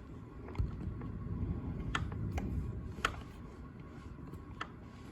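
Low rumble of distant thunder swelling and then fading, with a few sharp ticks scattered through it.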